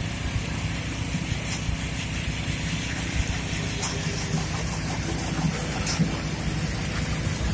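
Heavy road-construction machinery engine running steadily with a low rumble, with a few short knocks or clicks over it.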